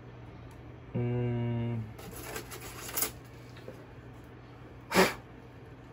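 A man hums a short steady 'mm' for under a second, then model-kit parts and packaging rustle and click as they are handled, with one sharp tap about five seconds in.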